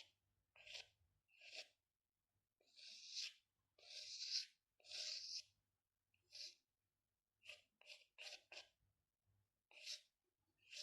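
Drawing strokes scratching across paper: a dozen or so separate strokes, three longer ones around the middle and a quick run of four short ones near the end.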